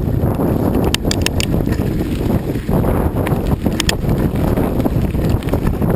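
Wind buffeting the microphone while riding, a steady low rumble, with a few short clicks about a second in and again near four seconds.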